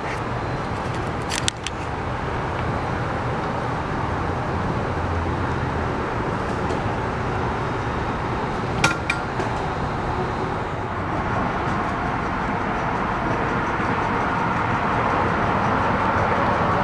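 A train approaching, heard as a steady mechanical noise that grows louder near the end, with two sharp metallic clinks, one about a second and a half in and one about nine seconds in.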